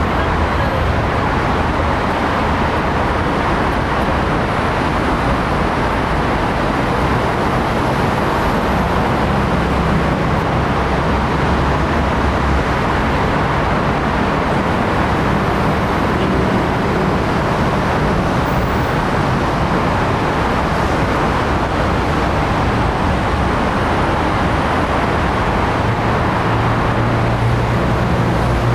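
Steady, loud rushing noise with a low hum underneath that shifts in pitch now and then.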